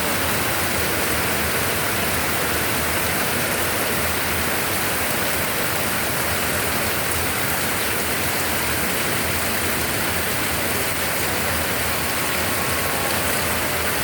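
Rain falling steadily, a dense, even hiss that does not change.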